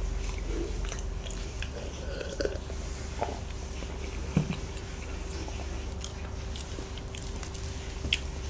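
Close-miked chewing and biting of soboro bread (Korean streusel-topped bun), a scatter of soft clicks and smacks from the mouth.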